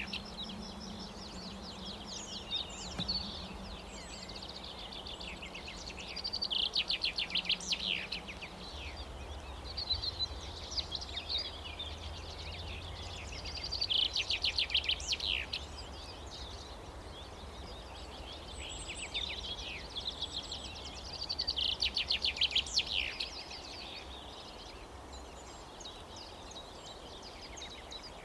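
A songbird singing loud, rapid trilled phrases, repeated about every seven seconds, over a low steady outdoor hum.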